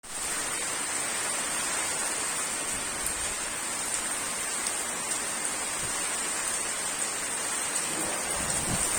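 Steady rain falling on a garden pond and its surroundings: an even, unbroken hiss of drops on the water surface.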